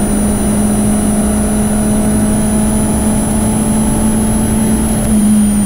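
Peugeot 206 Rally Cup's four-cylinder engine heard from inside the cabin, held at high revs under full throttle on a straight, with a thin high whine above it. Near the end the revs begin to fall.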